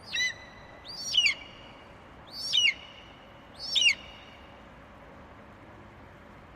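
A bird calling four times in the first four seconds, each a short high call that sweeps down in pitch.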